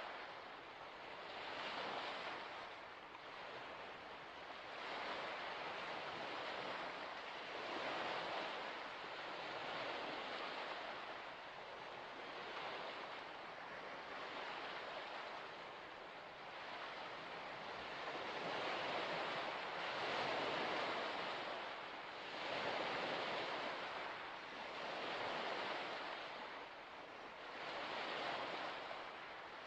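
Small waves washing onto a shore, a steady rush of water that swells and eases every two to three seconds.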